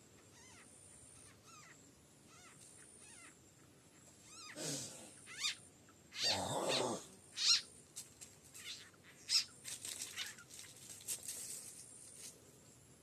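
An animal calling: faint repeated chirps, then two louder cries about four and six seconds in, followed by a run of sharp clicks and squeaks.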